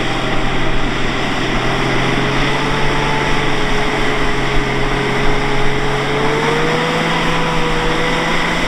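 Toyota Land Cruiser Troop Carrier's engine working hard as it drives up a soft sand dune, with a steady rush of noise over it and the revs rising a little about six and a half seconds in.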